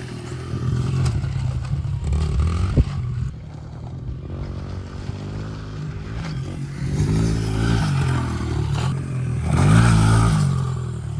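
Honda pit bike's small single-cylinder four-stroke engine running, revving up twice, about two thirds of the way in and again near the end. There is a sharp click about three seconds in.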